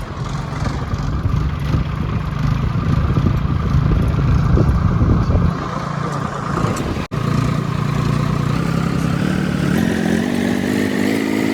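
Diesel tractor engine running loud; the sound drops out for an instant about seven seconds in, then the engine note climbs steadily toward the end as it revs up.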